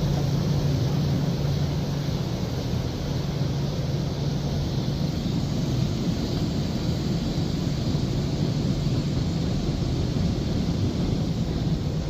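Istobal M'Wash 3 touchless car wash gantry running a stage before its high-pressure wash, heard from inside the car: a steady hiss of spray over a constant low machine hum.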